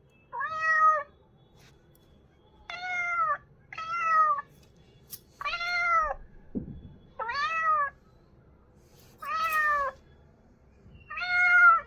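Cat meowing: seven separate meows spaced a second or two apart, each rising and then falling in pitch.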